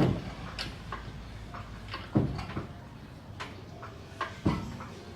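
Scattered metal knocks and clanks from work on the car's engine bay. The loudest comes right at the start, with others about two seconds and about four and a half seconds in.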